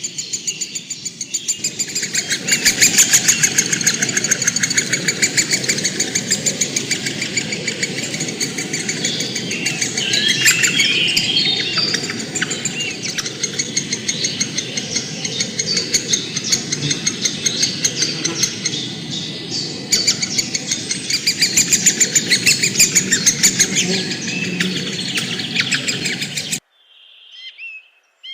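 A loud, dense chorus of many birds chirping and chattering rapidly. It cuts off abruptly near the end, and a few separate short whistled bird calls follow.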